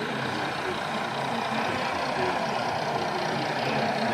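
Steady hubbub of a busy exhibition hall, many people talking at once in the background.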